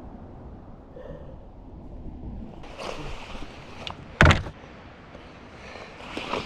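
Kayak being dragged up from the water, its hull scraping and rumbling over the ground, with one sharp, loud knock a little past the middle.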